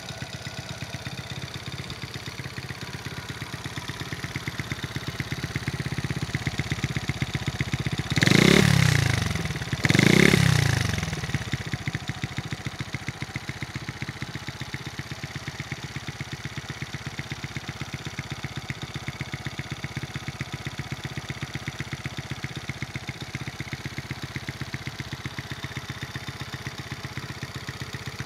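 1988 Honda Monkey's 49cc four-stroke single idling through an OUTEX T2 aftermarket muffler with an aluminium silencer. It is blipped twice, about eight and ten seconds in, each rev rising and falling quickly, then settles back to an even idle.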